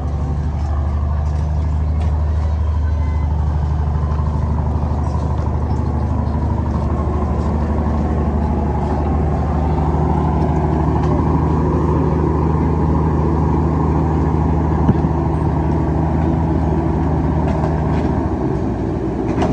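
Heavy diesel engine of construction machinery running steadily at a constant speed, with a single short knock about fifteen seconds in and a slight change in its note near the end.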